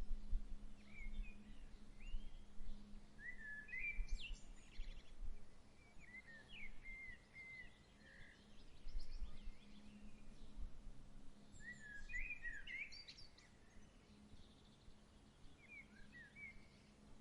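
Songbirds giving scattered short chirps and twittering calls over a soft breeze that swells now and then in low rumbles, with a faint steady low hum underneath.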